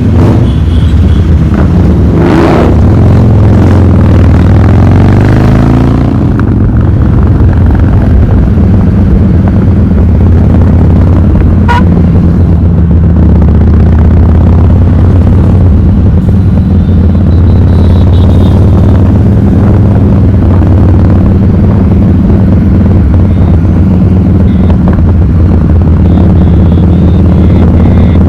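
Harley-Davidson V-twin motorcycle with a loud aftermarket exhaust running steadily, its deep exhaust note shifting in pitch during the first few seconds and then holding even.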